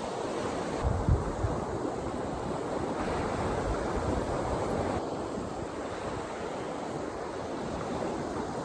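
Ocean waves washing on a beach in a steady surf, with wind buffeting the microphone in low gusts, strongest about a second in.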